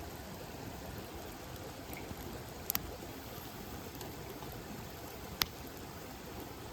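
Campfire burning with a steady soft hiss and a few sharp crackles: a quick double pop a little under halfway through and a single pop later on.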